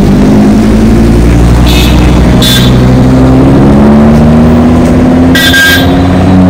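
Audi R8 engine running at low revs as the car pulls away, its pitch rising gently in the second half. A few short, high horn toots cut in, twice early on and once near the end.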